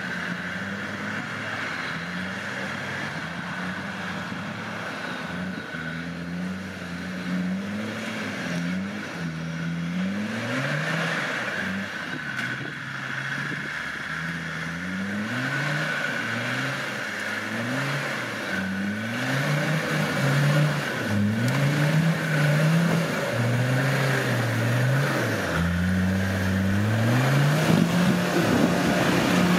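Off-road 4x4 engine revving up and down again and again as the vehicle works its way over a tree root, the revs growing louder near the end.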